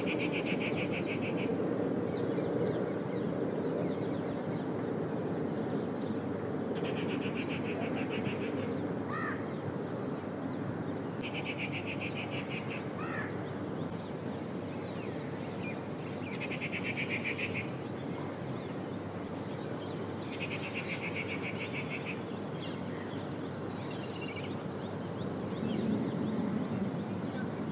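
Birds calling outdoors: a rasping, rapidly pulsed call lasting about a second, repeated every few seconds, with a couple of short rising chirps between.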